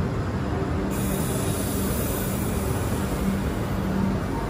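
Express train's passenger coaches running slowly alongside a station platform: a steady running rumble with a constant low hum, and a hiss that starts about a second in and holds.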